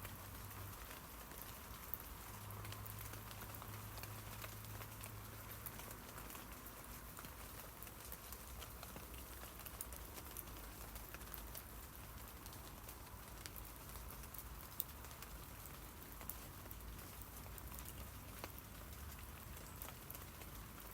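Rain falling on tree leaves: a steady soft hiss dotted with many small, irregular drop ticks.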